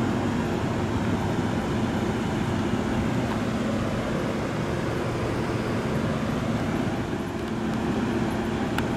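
Steady low hum of idling car engines and street traffic, with a faint click near the end.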